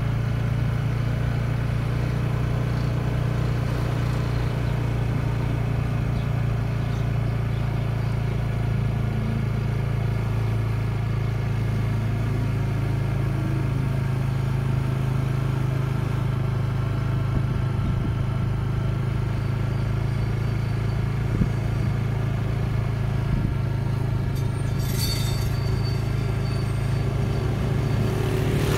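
Motor vehicle engine running at a steady speed with a constant low hum, as on a drive along a road. A short hiss sounds near the end.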